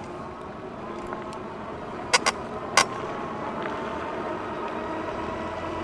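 Electric bike under way: a steady motor hum with a faint whine over tyre and road noise. A few sharp clicks come about two and three seconds in.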